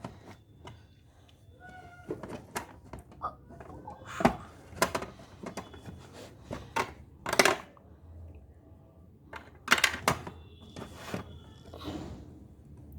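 Small plastic toy pieces clicking and knocking as they are handled and put away, a dozen or so separate sharp taps with uneven gaps.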